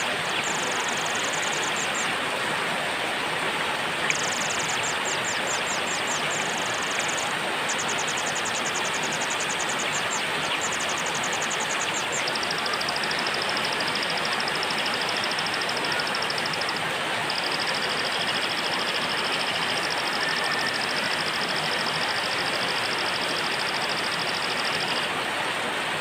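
Steady heavy rain hiss, with a small songbird singing over it. First come several bursts of fast, repeated high notes, then long, even, high trills held for several seconds at a time.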